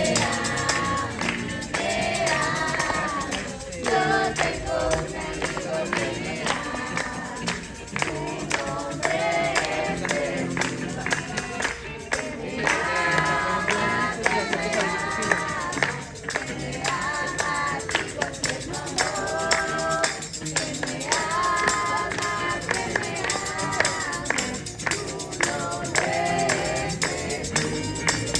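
A group singing a worship chorus together over steady rhythmic percussion.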